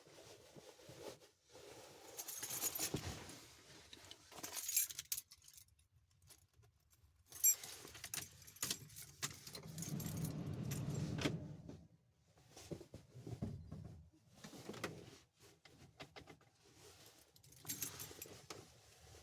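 A bunch of keys jangling in irregular bursts, with scattered handling clicks and rustles and one sharp click about seven seconds in.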